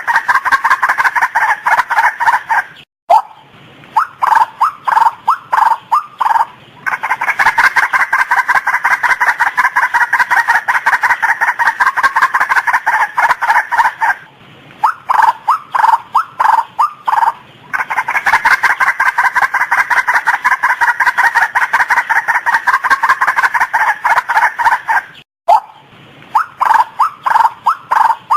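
Female white-breasted waterhen calling: long runs of rapid, harsh, repeated notes alternating with slower series of separate notes, the pattern coming round about every eleven seconds.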